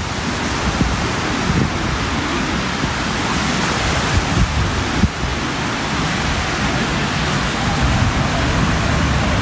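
Steady surf washing on a sandy beach mixed with wind, the wind rumbling unevenly on the microphone.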